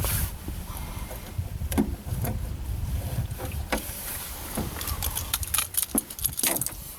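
Wind buffeting the microphone in a low, steady rumble, with scattered knocks and clicks of handling in the boat that come thickest over the last couple of seconds.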